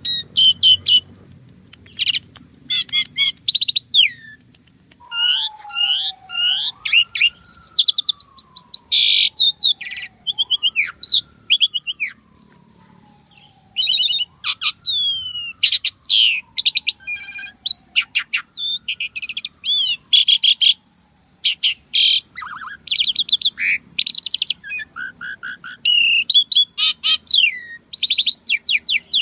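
Asian pied starling (jalak suren) singing a long, busy song of rapid chirps, squeaks and high whistles, full of varied fill-in phrases. Through the middle a slower, lower whistle keeps sliding down in pitch, then jumping back up, about four times.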